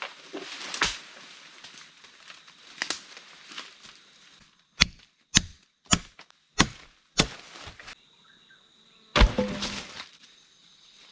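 Chopping on wood: rustling and scattered knocks, then five sharp strikes about half a second apart, and one heavier strike near the end.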